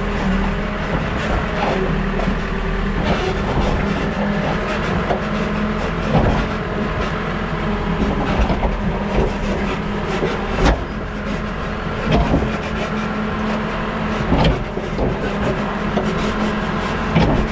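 New Holland backhoe loader's diesel engine running steadily while the machine works. Scattered knocks sound over it every few seconds, one of the sharpest about two-thirds of the way through.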